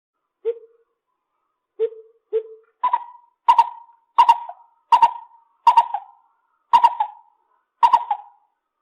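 Lesser coucal calling: three low, hollow hoots, then a run of about seven louder, higher-pitched hoots spaced under a second apart, each trailing off briefly.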